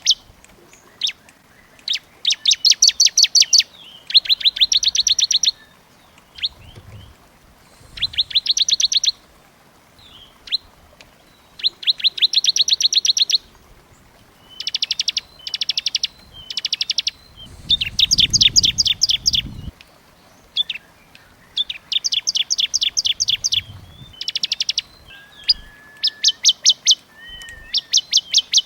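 Small songbird song used as masteran training audio: dense, rapid trills of fast repeated high notes in bursts of about a second each, one after another with short gaps.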